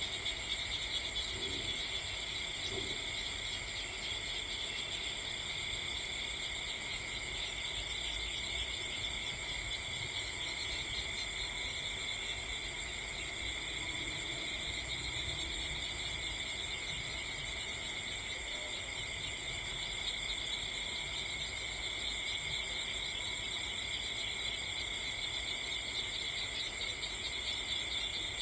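A steady chorus of crickets trilling, with no pauses, in several high pitch layers over a low, even rumble.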